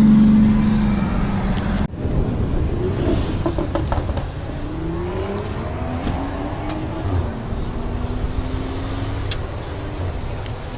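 Car engine droning at a steady pitch, cut off abruptly about two seconds in. After that comes more engine sound, with engine notes rising slowly in pitch as the car accelerates.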